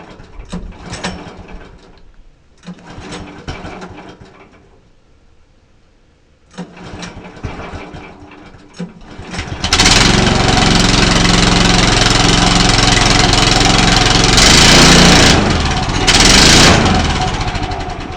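Small gasoline engine of a portable sawmill running in short bursts at first, then throttled up and running loud and steady from about ten seconds in, with two sharper surges near the end before it dies down, as the saw binds in the log.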